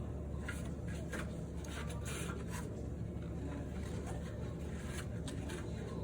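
Light rubbing and scraping strokes with a few small clicks, over a steady low hum.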